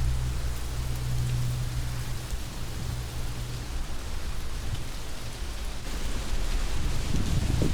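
Heavy rain falling steadily, an even hiss with a low rumble beneath it in the first half. Near the end a low roll of thunder builds up.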